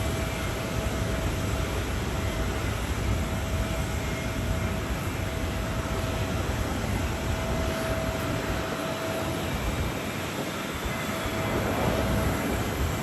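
Airbus A330-300 airliner's jet engines running steadily on its landing approach, with a faint steady whine, mixed with low wind rumble on the microphone from strong gusty wind.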